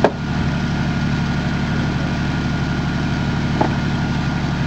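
Jeep Cherokee XJ engine idling steadily. A sharp click comes right at the start and a small knock about three and a half seconds in.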